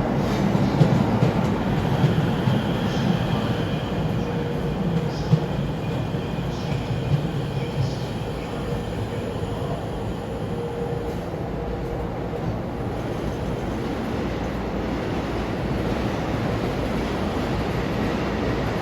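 E231-500 series electric commuter train running through a station platform: steady rolling rumble of wheels on rail, with a few sharp clicks over rail joints and a faint high whine in the first half.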